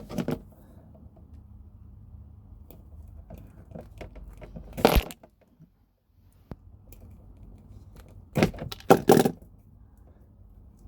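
Handling noises as the stripped ends of stranded copper wire are twisted by hand: scattered small clicks and rustles, with one sharp scrape about five seconds in and a quick cluster of three or four near the end.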